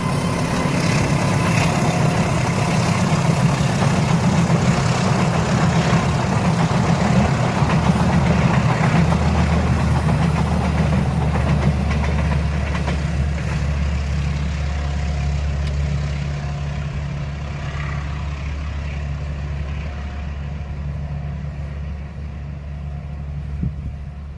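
Passing train hauled by a diesel locomotive: a steady low engine drone over rolling wheel and rail noise, slowly fading away over the last several seconds.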